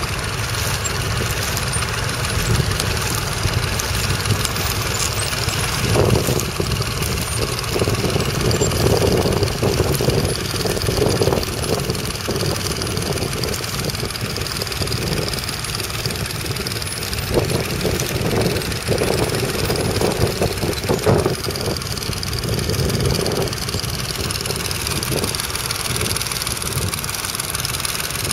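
Nuffield Universal 3 tractor's three-cylinder diesel engine running steadily under load, with the engine note swelling repeatedly in the middle.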